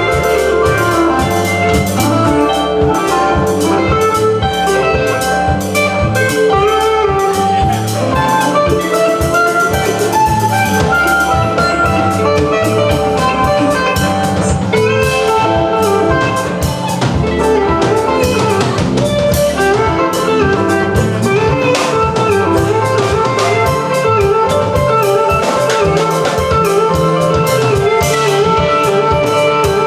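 Live country band playing an instrumental passage: a drum kit keeps a steady beat under guitar and other melody instruments.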